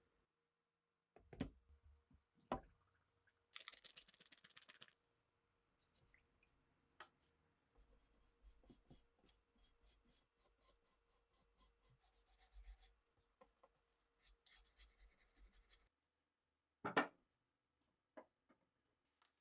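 Hand-work on rifle parts: two light knocks, then runs of quick scratchy rubbing strokes, two or three a second, as in sanding or scraping. A sharper knock comes near the end.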